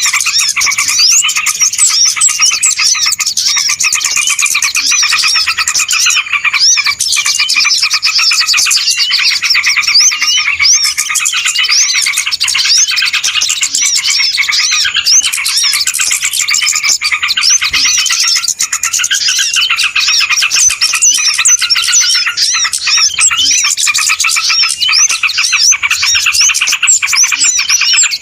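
Many small songbirds chirping and twittering at once in a dense, unbroken chorus of fast, overlapping high chirps. This is a bird-lure (pikat) recording of noisy small birds, played to draw wild small birds in.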